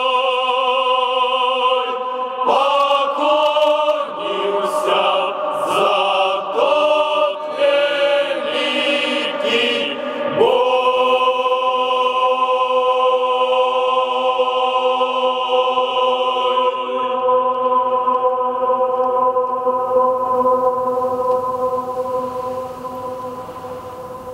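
Male sailors' choir singing: a held chord, a run of moving notes, then a long final chord that is held and fades away near the end.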